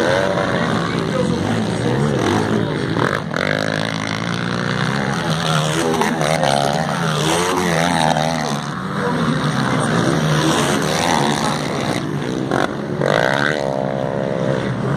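Several motocross bikes racing on the track, their engines revving up and down over one another.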